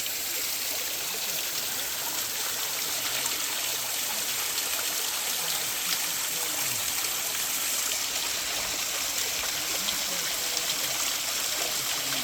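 Small garden stream running, a steady rushing and trickling of water.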